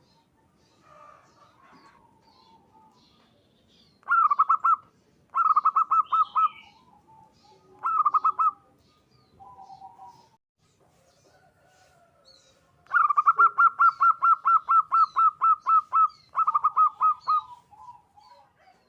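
Zebra dove (perkutut) singing in bursts of rapid, staccato cooing notes, the longest a run of well over a dozen notes about thirteen seconds in. Softer, lower coos come between the bursts, with faint high chirps behind.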